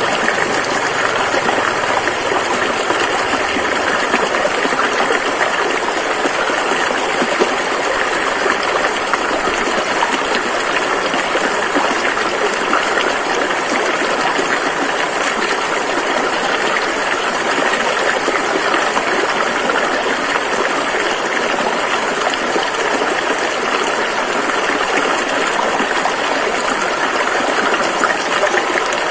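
Rushing river water flowing over rocks, a steady, dense rush of splashing and gurgling.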